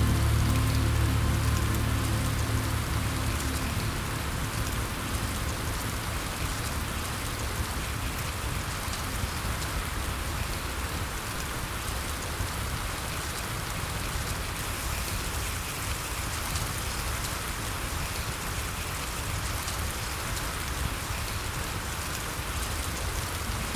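Steady rain falling, an even hiss without letup. Soft low music fades out over the first few seconds.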